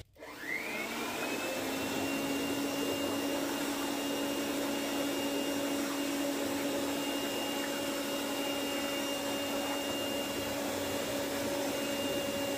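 Electric air blower switched on: its motor spins up with a rising whine in the first second or two, then runs at a steady whine and rush of air while pushing air through a hose submerged in a tub of dishwater to agitate it.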